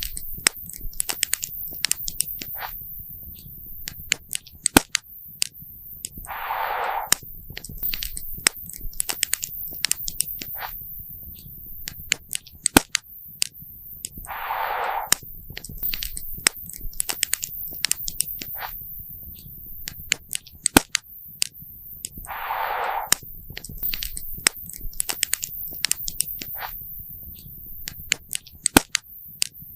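Wood fire crackling and popping, with irregular sharp pops over a low rumble. A brief hissing swell comes back about every eight seconds.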